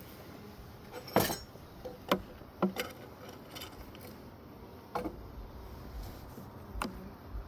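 Wooden beehive frames being handled in an open hive, giving about six sharp clicks and knocks at uneven intervals, the loudest about a second in.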